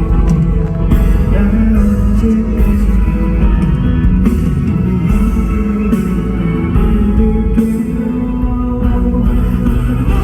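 Live pop song played loudly over an arena sound system: a guitar-led backing with a male voice singing, recorded from the crowd.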